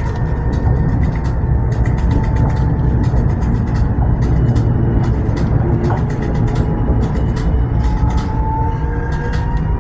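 Tram running on its rails: a steady low rumble with frequent light clicks and rattles, and a faint whine whose pitch rises slightly near the end.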